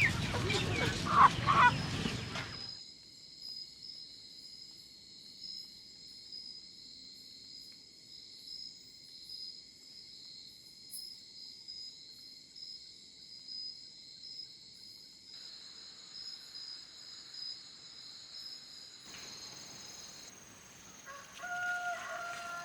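Farmyard chickens calling during the first couple of seconds, then a faint, steady high-pitched drone with soft pulses. Near the end a rooster crows.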